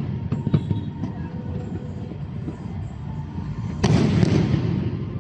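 Aerial fireworks shells bursting over a steady low rumble, with a few faint bangs early on and a loud cluster of bangs about four seconds in, each trailing off in an echoing rumble.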